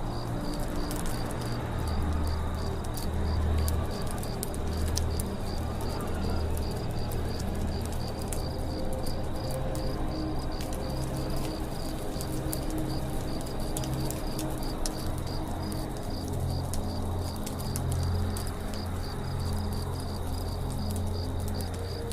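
Campfire crackling with many sharp pops over a low rumble of the flames, set in forest ambience with an insect's evenly pulsing call and birds calling.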